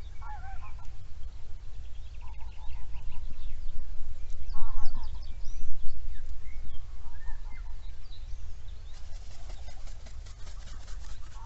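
Outdoor bird calls: a short honking call repeated about every two seconds, with other birds chirping higher up and a fast rattling call near the end, over a steady low rumble.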